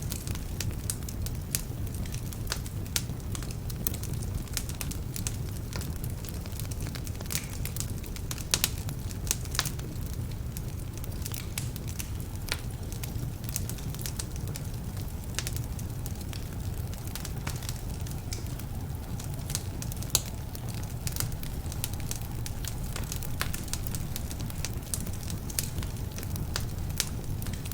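Wood fire burning in a fireplace: a steady low rumble of flames with frequent, irregular sharp crackles and pops from slightly damp logs.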